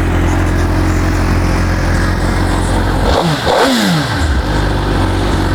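2012 Suzuki GSX-R1000's liquid-cooled inline four-cylinder engine, on its factory exhaust, idling steadily. About three seconds in it gets one quick rev of the throttle that rises and drops back to idle.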